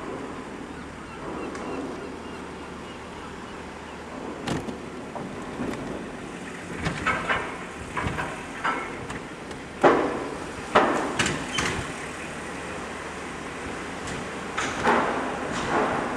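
A series of sharp, irregular knocks and bangs over a steady low hum, the loudest about ten and eleven seconds in.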